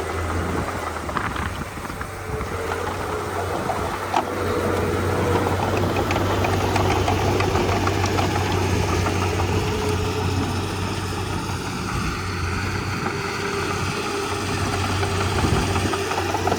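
Komatsu D31P bulldozer's diesel engine running steadily, with scattered faint clicks and one sharp knock about four seconds in.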